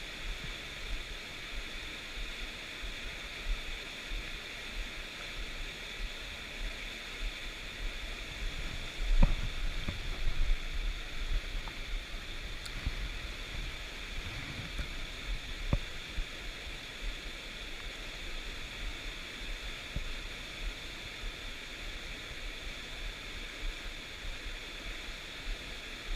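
Stream water rushing steadily, with a few low bumps and clicks about nine to sixteen seconds in.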